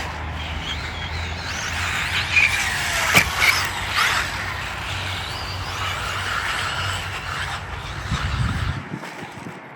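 Radio-controlled cars running on a dirt track, their electric motors whining up and down with the throttle, with a sharp knock about three seconds in.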